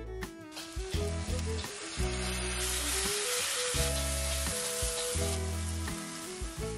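A wet spice mix of turmeric, red chili, coriander and cumin powder with water sizzles hard as it hits hot oil in a wok and is stirred with a spatula. The sizzle builds within the first second and eases off near the end.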